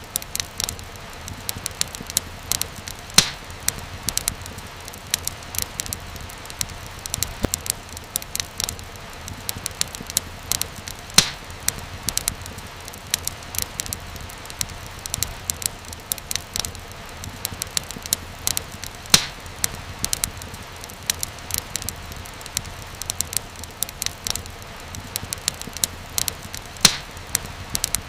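Wood fire crackling steadily in a fireplace: a continuous patter of small snaps over a low hiss, with a few louder pops spaced several seconds apart.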